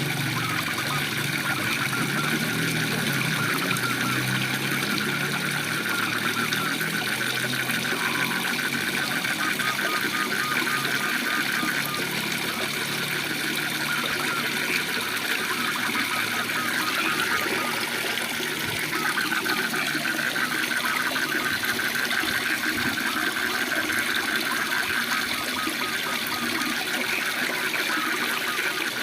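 Steady rush of a waterfall, with frogs calling in rapid pulsed trills over it.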